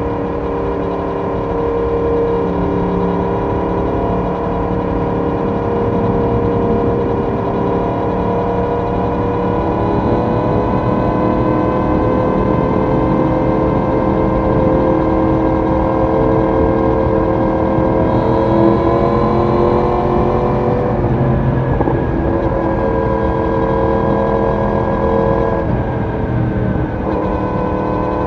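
Yamaha YZF-R1 inline-four sportbike engine and exhaust under steady cruising throttle at speed, its pitch climbing slowly. The pitch dips and resettles twice, about two-thirds of the way in and near the end, as the rider shifts or eases the throttle.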